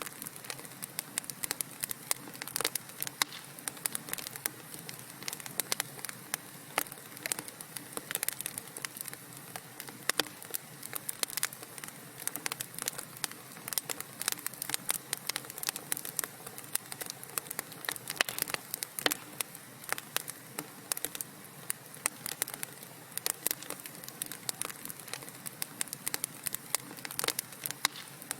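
Wood fire crackling in a fireplace: a dense, irregular run of sharp pops and snaps over a soft steady hiss of burning.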